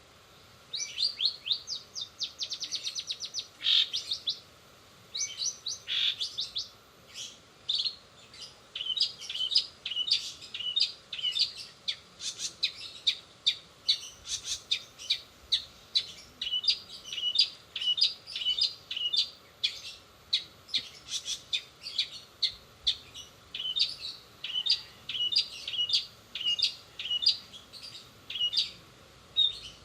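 Long-tailed shrike singing its fast, unbroken song of sharp high chirps, filled with mimicked sparrow and canary calls. Quick trill runs come first, then a steady stream of short notes, about three a second.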